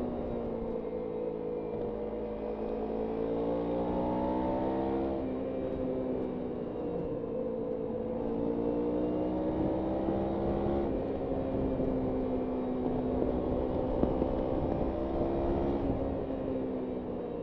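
Kawasaki Ninja 300's parallel-twin engine pulling through the gears while being ridden. The pitch rises and falls, with sudden changes about four times as the rider shifts gears.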